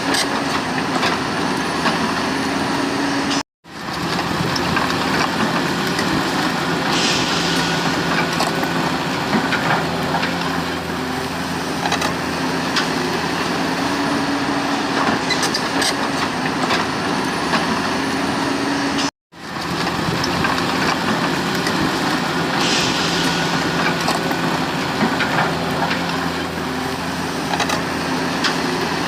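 Remote-controlled Volvo E598 excavator model working: a steady machine hum with held tones and scattered clicks and scrapes. The sound cuts out to silence briefly, twice.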